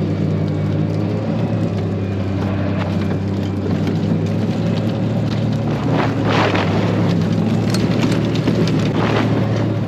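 A vehicle engine running steadily under a constant hiss, with a few brief rattles about six and nine seconds in.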